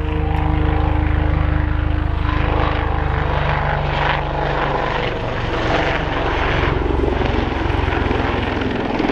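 Westland Lynx HAS3 helicopter flying a display pass: a loud, steady rotor beat over the whine of its twin Rolls-Royce Gem turboshaft engines, with a humming tone that fades out in the first few seconds.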